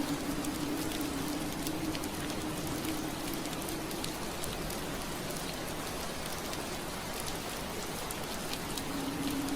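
Steady rain on window glass: an even hiss with many small scattered drop ticks. A low hum underneath fades out about three seconds in and comes back near the end.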